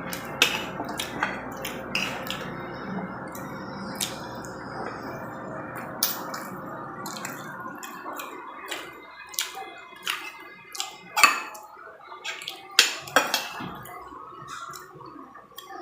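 Eating sounds: spoon and fork clicking irregularly against a plate or bowl, with wet eating sounds. A steady background hiss thins out about halfway through.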